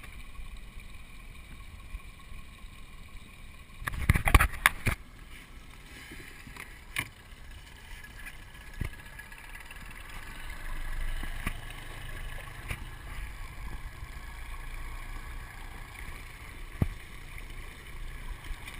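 Water lapping and sloshing against a small boat's hull. A cluster of loud knocks comes about four seconds in, followed by scattered single knocks.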